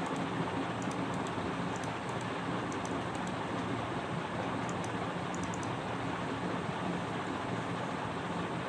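Steady background noise with a low hum, and faint high ticks through the first six seconds or so.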